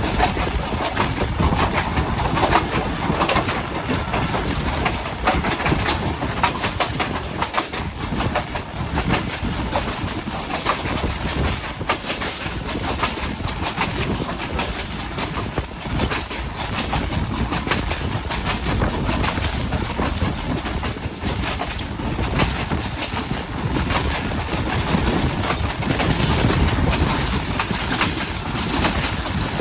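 Passenger train running at speed, wheels clicking over the rail joints amid a steady rumble of the coaches on the track.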